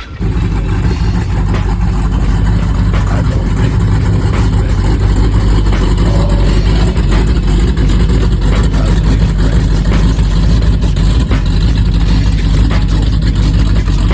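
Car engine fitted with aftermarket headers running steadily with a loud, deep exhaust drone, with no big revs. The sound begins abruptly at the start.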